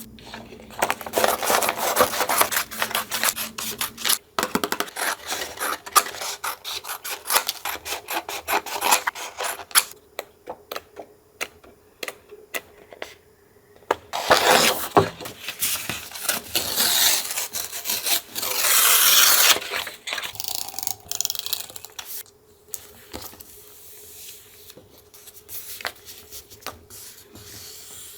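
Paper being handled during collage journaling: irregular rustling, rubbing and scraping with many small taps and clicks, two longer rubbing strokes about halfway through, then quieter, sparser handling near the end.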